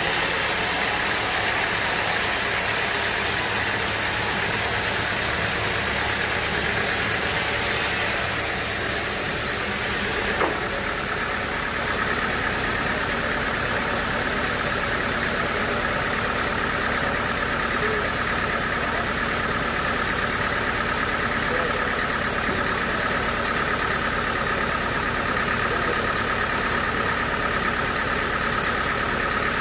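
Sawmill machinery running steadily, with a sharp click about ten seconds in, after which a steady whine sets in.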